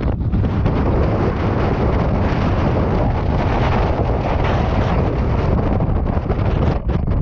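Strong wind blowing hard across the microphone: a dense, steady rush with heavy low buffeting.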